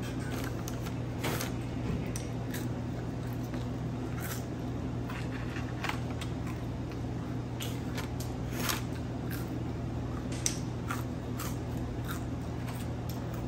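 Chewing and crunching on crispy fried fish and French fries, with scattered short crisp bites over a steady low hum.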